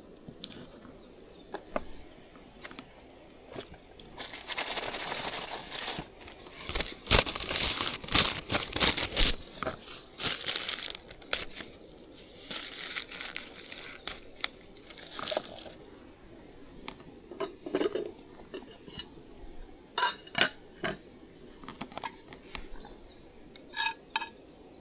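Crinkling and rustling of something being handled, in several spells, with many small clicks and knocks mixed in, busiest a third of the way in.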